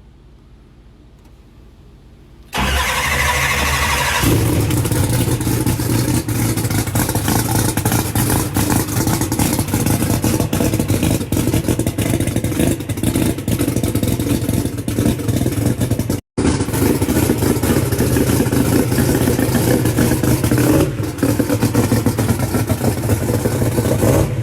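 A turbocharged drag race car's engine starts abruptly about two and a half seconds in and settles into a steady, loud, lumpy idle; the sound drops out briefly around sixteen seconds in.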